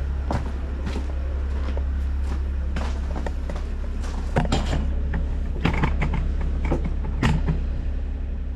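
Steady low drone of a diesel engine idling, the Bobcat E50 excavator warming up, under a series of creaks, clicks and knocks from things being handled, most of them between about four and seven and a half seconds in.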